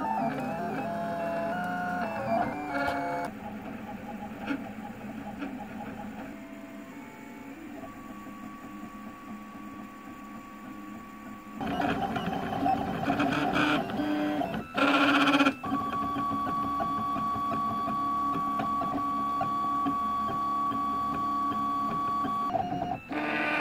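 Printrbot Plus 3D printer running a print: its stepper motors whine in steady tones that jump to a new pitch with each move. It is quieter for several seconds in the middle and louder again from about halfway, with a brief louder burst.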